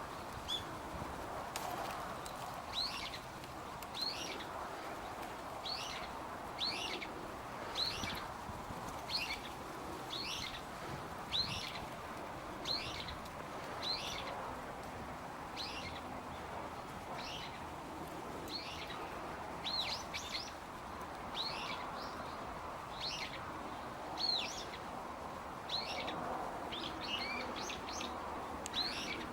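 A bird repeating a short, sharp, high chirp about once a second, sometimes in quick pairs, over a steady background hiss.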